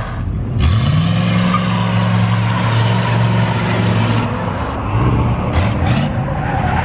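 Car engine revs up about half a second in and holds at high, steady revs for several seconds under a loud rushing noise, typical of a burnout.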